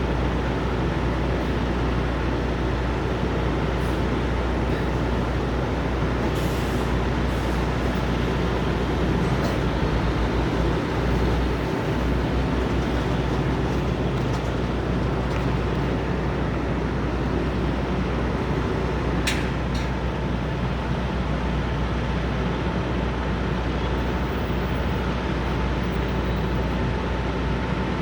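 Steady low rumble of idling diesel truck engines, with a constant faint whine running through it and a brief sharp high sound about nineteen seconds in.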